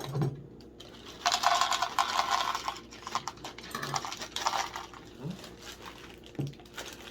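Dry cereal poured from the box into a bowl, the pieces rattling and clattering. It comes in two pours, a longer one about a second in and a shorter one around four seconds.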